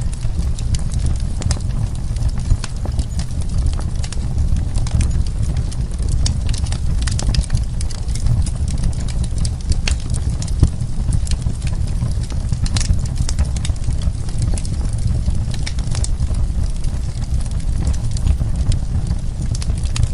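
Wood fire burning, with a steady low rumble of flames under frequent sharp crackles and pops from the burning wood.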